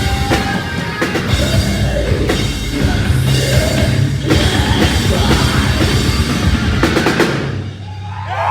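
Live heavy metal band playing loud, with the drum kit prominent: bass drum and snare hits. The song cuts off about seven and a half seconds in, after a last flurry of drum hits.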